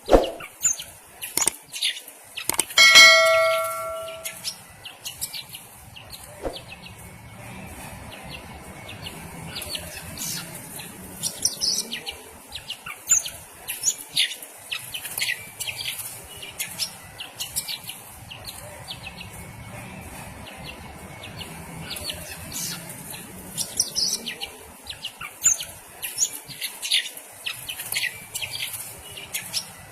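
Green leafbird chirping in short, high calls with scattered clicks, and a loud bell-like ring about three seconds in.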